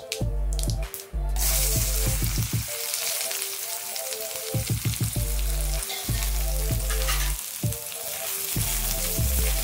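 Sliced onions, garlic and green chillies frying in hot oil in a kadhai, the sizzle starting suddenly about a second in as they go into the pan, with a spatula stirring them near the end. Background music plays underneath.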